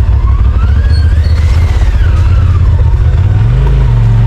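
Side-by-side UTV engine and drivetrain running under load, with a whine that rises and then falls in pitch over about two seconds; the engine note shifts lower-to-higher about three and a half seconds in.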